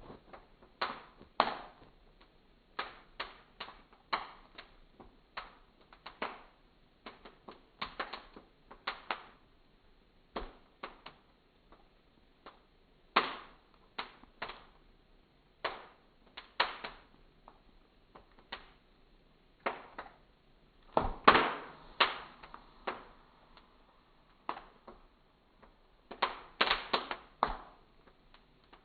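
Fire crackling, with embers popping and snapping at irregular moments, one to a few sharp pops a second. A few pops are louder, clustered about halfway through and near the end.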